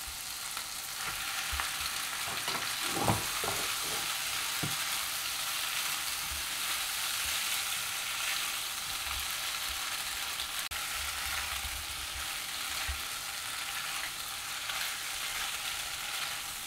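Boiled pasta shells and spiced chicken sizzling in a hot nonstick frying pan while being stirred with a spatula. There is a steady hiss, with a few short knocks between about two and five seconds in.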